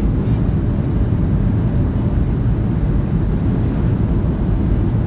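Steady low rumble of airflow and engines inside the cabin of a Boeing 737-800 on approach.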